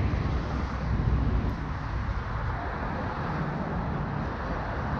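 Car engines running with a steady low rumble under a haze of traffic noise.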